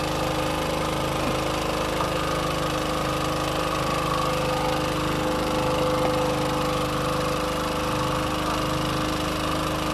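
Boat engine running steadily with an even hum and a fast, regular pulsing.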